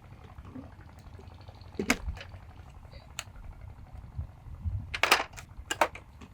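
Several short, sharp clicks and knocks, a few seconds apart, over a low steady rumble.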